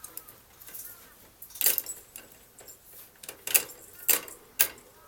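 Pet bird moving about, with four short, sharp sounds spread over the second half, the last three about half a second apart, and faint soft chirps near the start.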